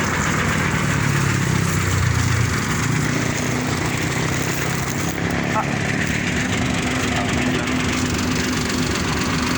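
A vehicle engine running steadily under a constant rush of noise, its low hum shifting slightly about two and a half seconds in.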